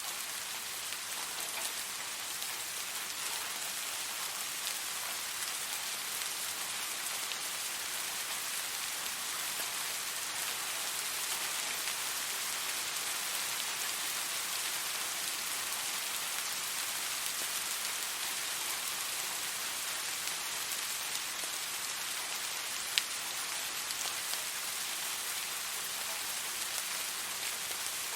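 Steady rain falling on a hard surface, a dense even hiss of many fine drop impacts, with one sharper single drop about 23 seconds in.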